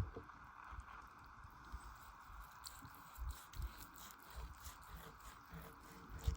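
A person chewing food, faint, with scattered small wet clicks and soft knocks over a steady background hiss.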